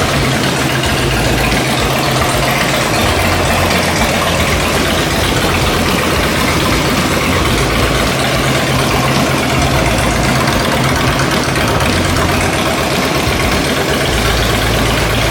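Harley-Davidson V-twin engine idling steadily, running again after the repair of a seized engine.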